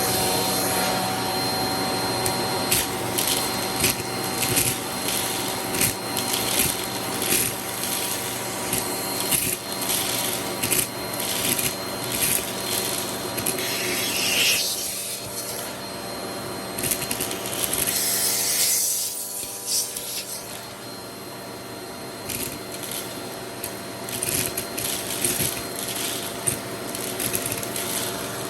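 Vacuum cleaner motor running steadily with a high whine, while an attachment tool rubs and clicks against surfaces. The motor note shifts twice in the middle of the stretch.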